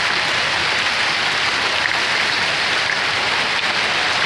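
Heavy hail falling steadily, a dense, even clatter of many hailstones striking hard surfaces.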